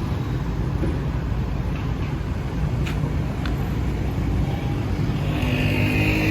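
Road traffic on a city street: a steady rumble of vehicle engines and tyres, with one engine growing louder near the end as it comes close.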